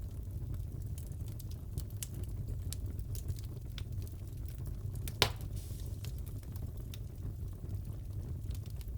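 Wood fire crackling in a fireplace: scattered small pops and snaps over a low steady rumble, with one loud sharp pop about five seconds in.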